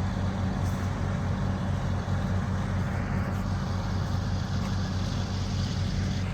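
Grimme Varitron 270 self-propelled potato harvester running steadily while lifting, a constant low engine hum under an even mechanical noise.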